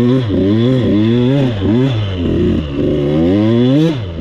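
Two-stroke dirt bike engine under a rider, revving up and dropping back about five times as the throttle is worked.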